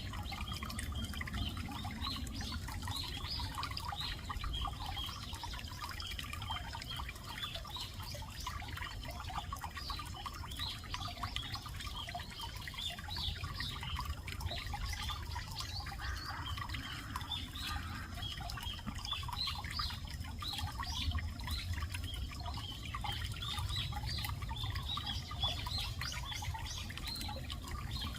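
Pond-side ambience: many small birds chirping continuously, mixed with the trickle of water, over a steady low rumble.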